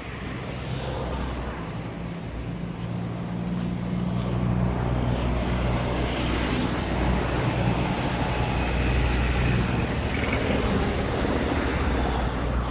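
A motor vehicle's engine running close by with a steady low hum over road noise. It grows louder about four seconds in and eases off near the end.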